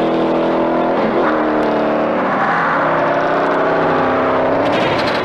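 Ford Mustang Shelby GT500's supercharged V8 revving hard at full throttle as the car accelerates, its note dipping briefly about a second in and then climbing in pitch again.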